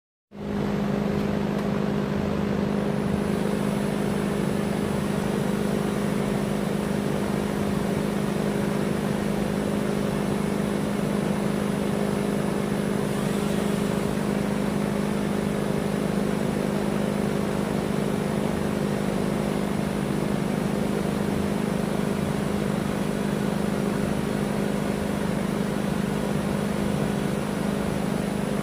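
Electric drill motor running steadily at constant speed with a strong, even hum while boring a hole into the Draco's rear trunnion.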